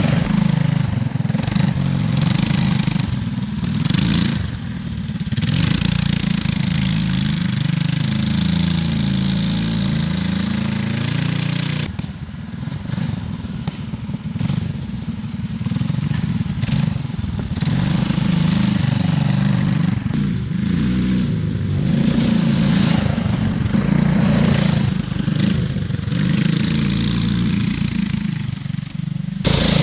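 The two small gas engines of an off-road go-kart running under throttle as it is driven, engine speed rising and falling. Around the middle, two engine tones glide past each other as the engines run at different speeds, and the sound changes abruptly about twelve seconds in and again near the end.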